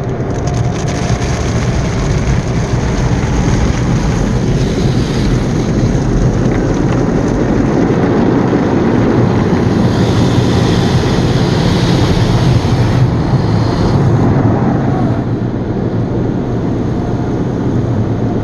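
Automatic car wash running on the car: a loud, steady rush of spray and machinery. It grows brighter and hissier about ten seconds in, then eases off slightly around fifteen seconds.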